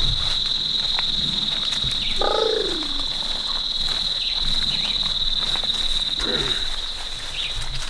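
Steady high-pitched drone of insects chirring in the forest, with a short call falling in pitch about two seconds in and a fainter one near six seconds.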